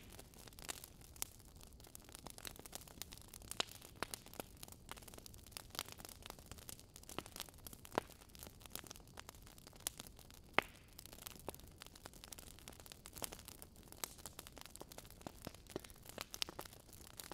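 Wood fire crackling in a fireplace: irregular snaps and pops over a faint steady hiss. The sharpest pop comes about ten seconds in.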